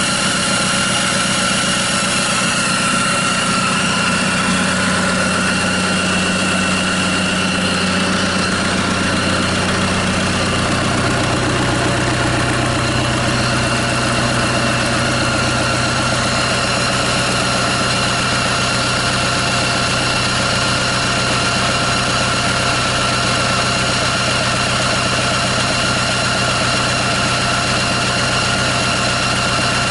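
Kia Bongo J3 four-cylinder diesel engine idling steadily on a test stand outside a vehicle, during an oil pressure check. Its low tone shifts slightly about ten seconds in.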